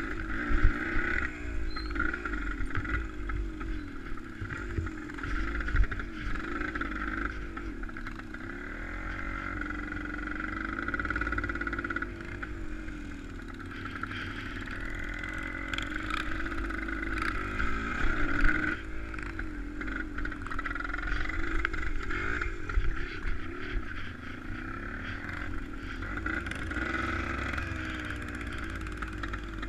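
Motor vehicle engine running steadily, its pitch wavering up and down as the throttle or load changes, over a low rumble with a few knocks.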